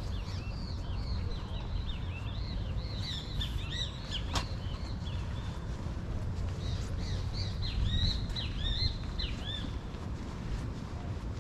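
Small birds chirping in quick runs of short, curved, high notes, in two bouts with a pause of a couple of seconds between them, over a steady low outdoor rumble. One sharp click a little over four seconds in.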